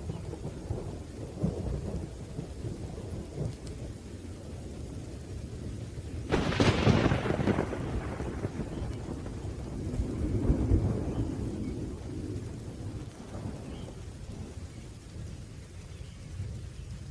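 Thunderstorm with rain: steady low rolling thunder, broken about six seconds in by a sudden sharp thunderclap that rumbles away over a couple of seconds, then another swell of rumbling around ten seconds in.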